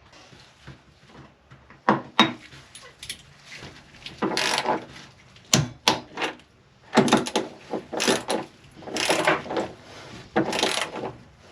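Hand tools and metal parts being handled while bolts are fitted into a jet ski hull: a run of sharp clicks and knocks with several short rasping stretches.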